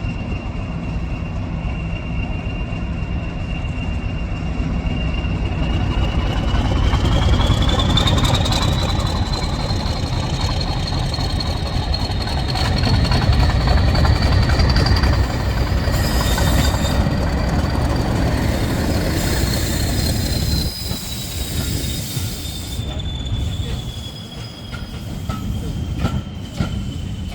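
Heritage diesel locomotive pulling away from the station: a heavy engine rumble and a high whine that rises in pitch about six seconds in, holds, then falls away over the last ten seconds as the locomotive moves off. There is rail noise from the train on the track.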